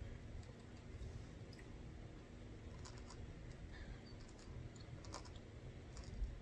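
A person quietly chewing chocolate-covered raisins, with a few faint, scattered clicks over low room noise.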